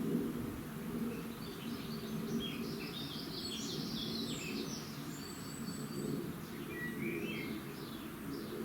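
Small birds chirping and twittering in a dawn chorus, busiest around the middle, over a steady low background noise.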